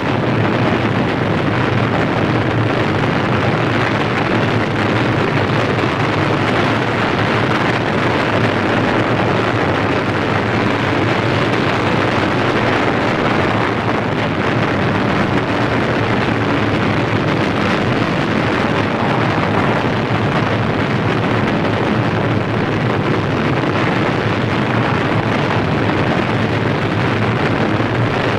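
Sound-effect recording of a large fire burning: a loud, steady, dense rushing noise without distinct bangs.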